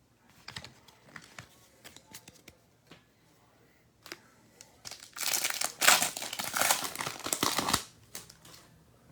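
Wrapper of a 2022 Bowman baseball card pack crinkling loudly for about two and a half seconds as it is torn open, starting about five seconds in. Before it, light clicks and taps of cards being handled.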